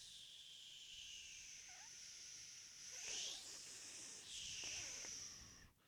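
A high, breathy whistle blown through the teeth close to the microphone, mostly airy hiss, bending up and down in pitch about three seconds in and again a second or so later.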